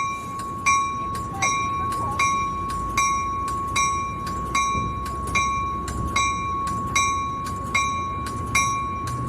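Locomotive bell ringing steadily, about one and a third strikes a second, over the low rumble of the train.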